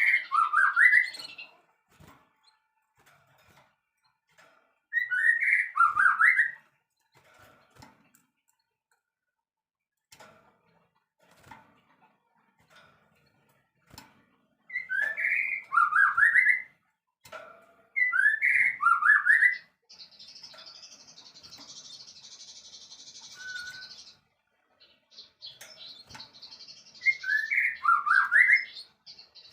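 A songbird repeating the same short phrase of quick, falling whistled notes about five times, with pauses between, and a few seconds of soft raspy hissing chatter in between.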